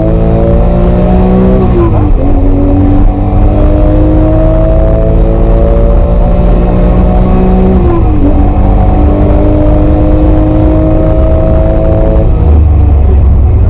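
Porsche 996 GT3's naturally aspirated flat-six pulling hard under acceleration, its pitch climbing steadily. It shifts up twice, the pitch dropping sharply each time, about two seconds in and about eight seconds in. Near the end the driver lifts off, and the rising note gives way to a low rumble.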